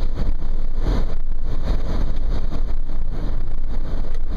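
Wind rushing in through the open sunroof of a 2010 Nissan Murano at about 60 mph, with road noise underneath: a loud, steady rush, strongest in the low end. It is loud enough that the driver has to basically yell to be heard.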